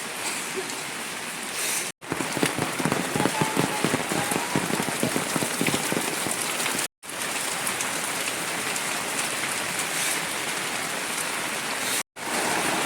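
Heavy rain falling, a dense steady patter of drops, denser and louder for a few seconds after the first break. The sound cuts out abruptly for an instant three times.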